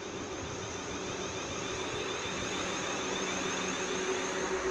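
Class 444 electric multiple unit running in to the platform: a steady hum and whine that grows gradually louder as it comes closer.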